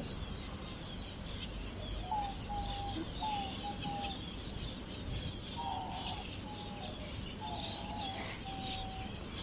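A flock of small aviary finches chirping continuously. From about two seconds in there is also a run of short, level, lower whistled notes from another bird.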